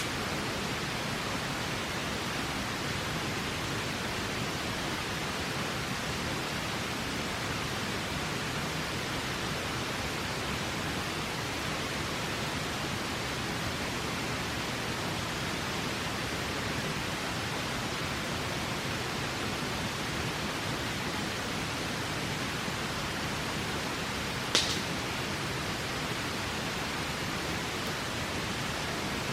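Steady rush of a flowing river, with a single sharp pop from a campfire near the end.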